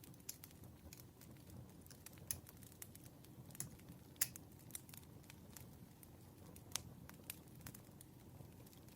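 Campfire crackling: a low steady rush of burning with irregular sharp pops and snaps, the loudest about four seconds in.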